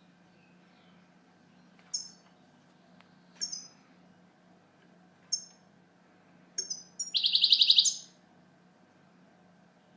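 European goldfinch calling: four short high chirps with quick falling notes, spaced a second or two apart, then a loud rapid trill of about a dozen notes lasting about a second, some seven seconds in.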